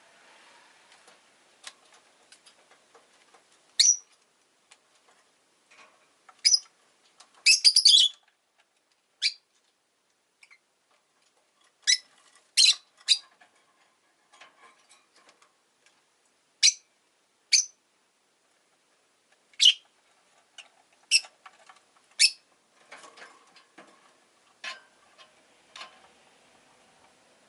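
Rosy-faced lovebird chirping: short, sharp, high-pitched calls, some single and some in quick clusters, spaced about a second or a few seconds apart. Softer clicks and ticks come in near the end.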